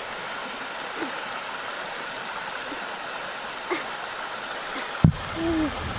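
Steady outdoor background hiss with a bird giving a few short, low hooting calls, and a sharp knock about five seconds in.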